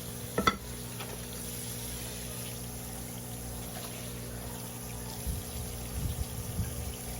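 Steady running water over a constant pump hum, with one sharp knock about half a second in and a few dull thumps near the end.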